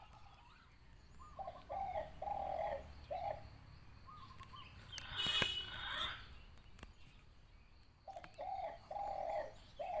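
A bird calling a short phrase of four low, cooing notes, repeated twice about seven seconds apart. A brief noisy rustle with a click comes in the middle.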